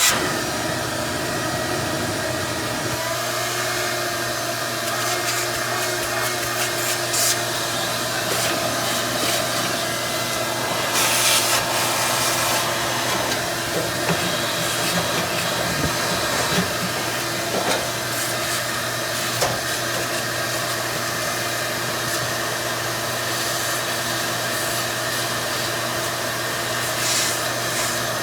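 A motor running steadily with a hum and rushing air, with scattered short knocks and scraping sounds over it.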